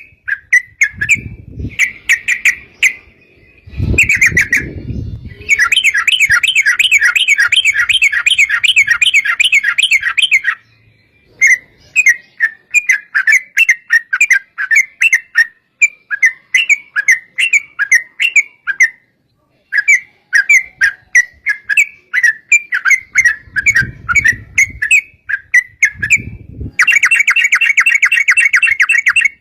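Yellow-vented bulbuls (trucukan) singing in quick chattering phrases, breaking twice into long rapid rolling runs ('ropel'), once about six seconds in and again near the end. A few low thuds sound under the song.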